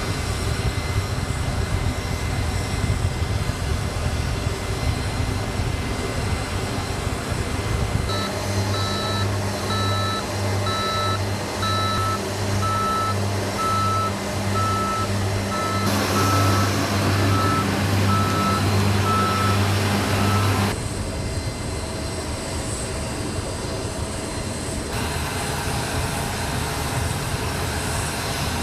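A vehicle's engine running, with a reversing alarm beeping in a steady repeating rhythm from about eight seconds in until about twenty seconds in.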